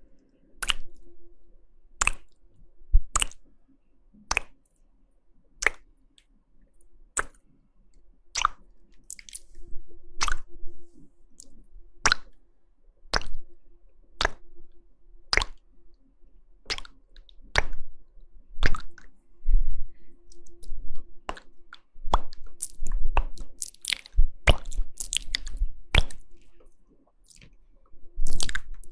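Close-miked ASMR mouth sounds: sharp wet clicks of tongue and lips, spaced about a second apart. They come quicker and in clusters near the end.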